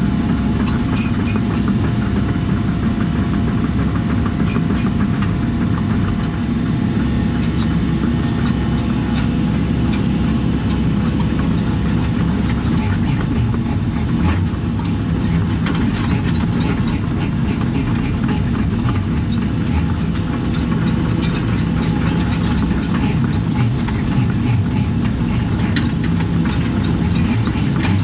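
Diesel engine of compact earthmoving equipment running steadily, with many small clanks and knocks of the machine working over the whole stretch.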